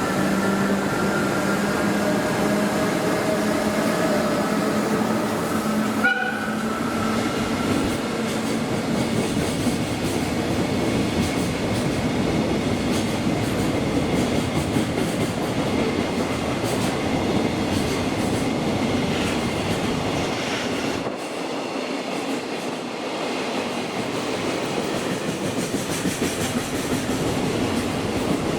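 JR Freight goods train rolling through the station: a steady, continuous noise of wagons passing on the rails, with a single sharp knock about six seconds in.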